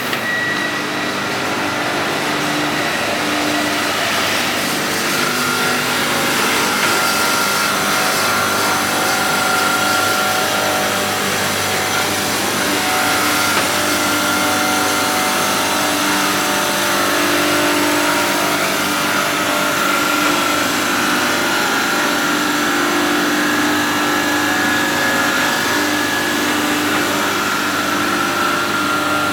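Steady running of machinery used to process truck brake linings: a continuous mechanical drone with several held whining tones that fade in and out.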